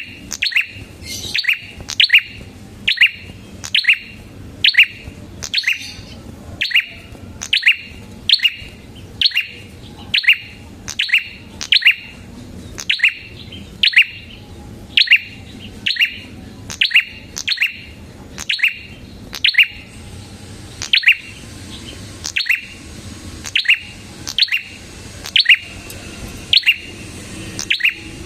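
Red-headed prenjak (prenjak kepala merah) calling in a fast, energetic run: one sharp, short, downward-sweeping chirp repeated evenly about one and a half times a second.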